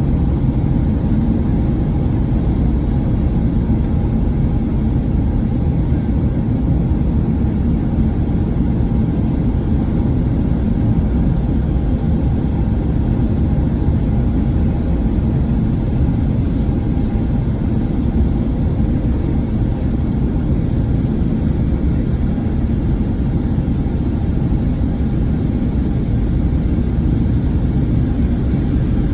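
Steady cabin drone of a Boeing 737-900ER, heard from inside the cabin: the rumble of its CFM56-7B turbofans and airflow, unchanging, with a few faint steady tones over the low roar.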